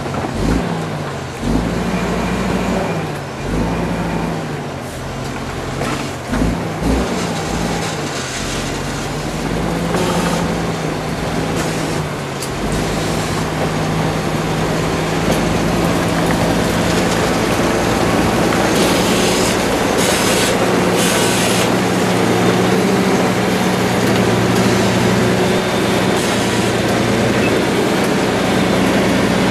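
A large engine running, its pitch dipping and rising several times over the first eight seconds or so, then holding steady. A few short bursts of hiss come about two-thirds of the way through.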